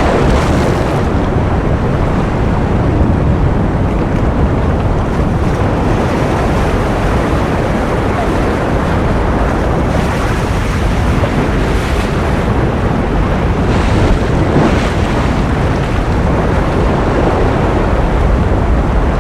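Ocean surf as a steady rushing noise, heaviest in the low range, with a few brighter wave washes swelling through it, about half a second in and again around twelve and fifteen seconds in.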